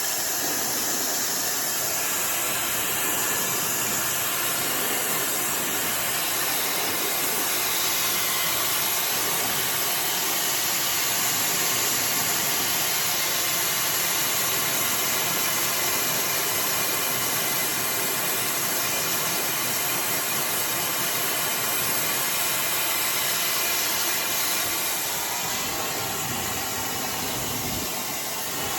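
iDryer AI Pro Style hair dryer running, a loud, steady rush of blown air with a faint motor whine in it, dipping slightly near the end.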